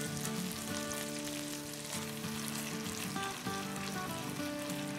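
Mutton and masala sizzling steadily in hot oil as fresh yogurt is stirred and pushed together in the pan with a slotted plastic spatula.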